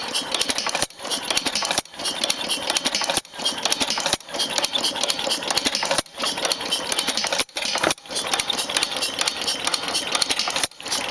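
Circa-1895 Pierce ¾ HP inverted hit-and-miss engine running just after starting. It makes a rapid clattering, broken by brief pauses every second or two.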